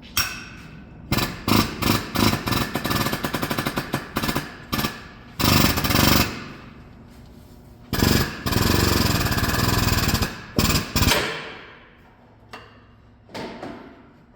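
Pneumatic impact wrench hammering in repeated bursts, running a nut onto a threaded rod: short stuttering pulls over the first few seconds, then longer steady runs in the middle, stopping about three-quarters of the way through.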